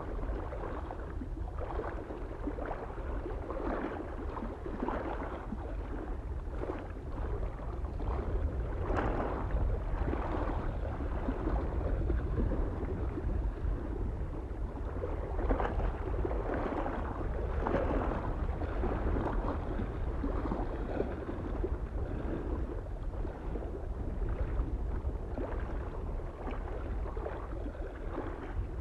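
Small waves lapping and splashing irregularly against a lake shore, over a steady low rumble of wind.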